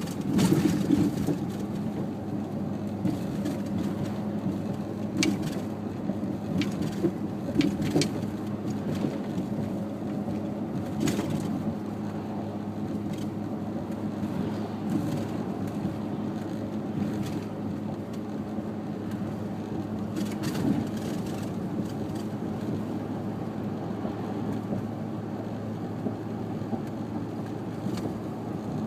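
Steady engine and road noise of a car driving, with a low even hum and scattered sharp clicks and knocks, most of them in the first half.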